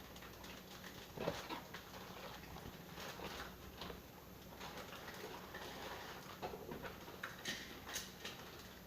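Homemade slime being worked in a container: faint, irregular clicks and short sticky smacks, a sharper one about a second in and several near the end.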